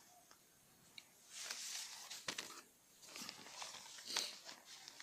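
Faint rustling in two stretches, with a couple of small clicks in between.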